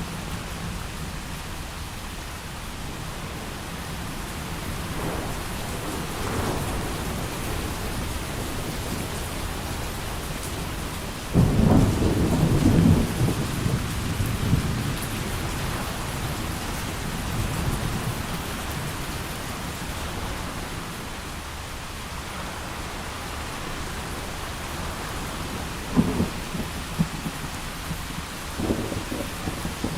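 Heavy rain falling steadily through a thunderstorm, with a loud thunder clap and rumble about eleven seconds in, and a few shorter, sharper thunder cracks near the end.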